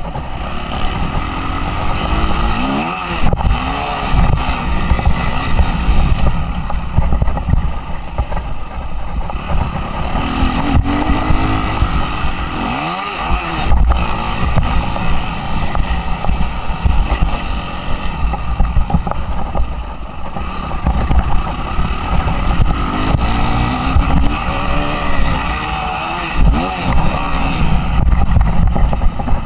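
Suzuki RM-Z 250 four-stroke single-cylinder motocross engine revving up and dropping back again and again as the bike is ridden around the track. It is heard from an onboard camera, with heavy wind noise and rumble on the microphone.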